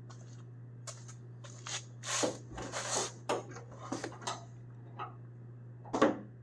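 Small hardware being handled and bagged: irregular rustling and clicking, with a louder clink about six seconds in.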